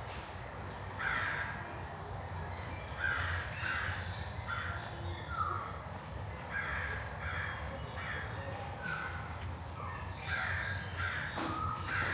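Birds calling: short, harsh calls in small groups of two or three, repeating every second or two, over a low steady hum.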